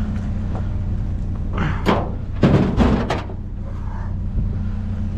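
Vehicle engine idling steadily, with a quick run of four sharp knocks and bangs about two to three seconds in.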